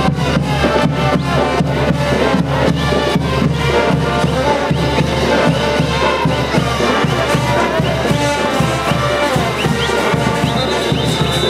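Live brass band playing diablada music: trumpets and other brass over a steady, driving beat of drums.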